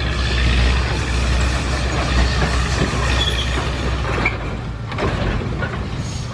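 Heavy diesel machinery running, with a strong low engine hum that drops away about four and a half seconds in.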